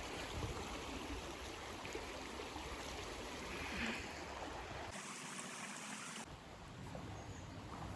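River water flowing steadily, an even rushing hiss of running water.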